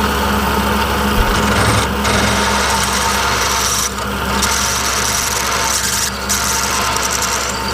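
Metal being cut in a machine shop: a continuous rasping cut over the steady hum of a running machine, easing off briefly about every two seconds.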